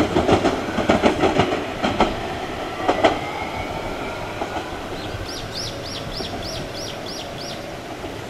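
JR Kyushu 817 series electric train pulling away into a tunnel. Its wheels clatter over the rail joints and points in quick strokes for about the first three seconds, then fade to a dwindling rumble. Past the middle, a small bird calls a run of about eight short, high, falling chirps.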